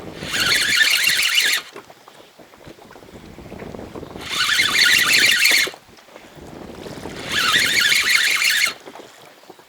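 Spinning reel buzzing in three bursts of about a second and a half, some three seconds apart, as the line is worked against a snagged lure.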